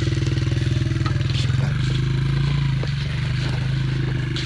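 Dirt bike engine running at a steady idle with a fast even pulse; about a second and a half in its note shifts lower and settles.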